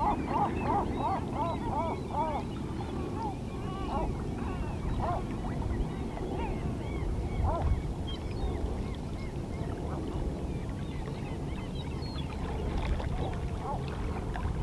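Small calm-sea waves lapping against shoreline rocks, with seabirds calling over them: a quick run of repeated call notes in the first couple of seconds, then scattered single calls.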